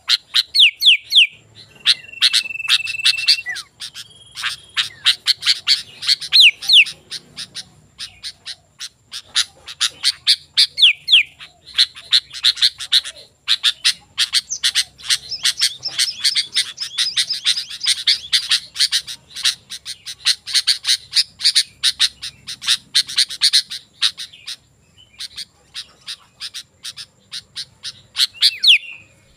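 Sooty-headed bulbul (kutilang) singing vigorously in fast runs of sharp chirps and short whistles, with one longer held note early on and a brief pause near the end.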